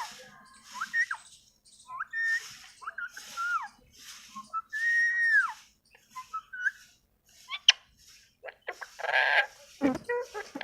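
Pet parrot whistling and chattering: a run of short whistles that glide up and down, with one longer held whistle about halfway through and a louder harsh call near the end.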